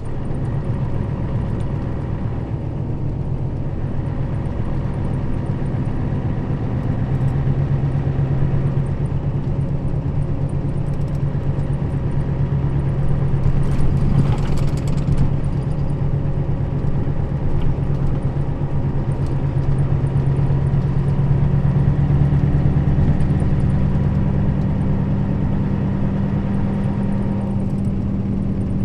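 Nissan Diesel KL-RA552RBN route bus driving, its diesel engine running steadily. The engine note shifts in pitch a few times as the bus changes speed. There is a short burst of noise about fourteen seconds in.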